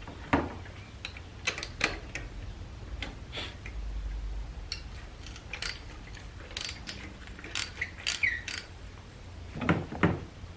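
A 3/8-inch hand ratchet on a socket and extensions, clicking in short, irregular runs with metal clinks of the tools, as it works on a spark plug.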